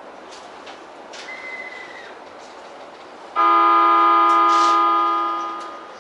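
Train horn sounding one long, loud blast at a steady pitch, starting abruptly a little past halfway and fading away near the end, over a steady low background hum.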